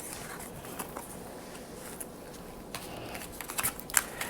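Trading cards and plastic card sleeves being handled, soft at first. From a little past the halfway point there is a run of crisp clicks and crinkles.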